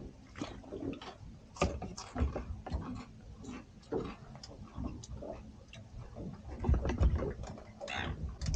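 Irregular light clicks and knocks of fishing gear being handled on a boat while a rig is changed, with a few low thumps about seven seconds in.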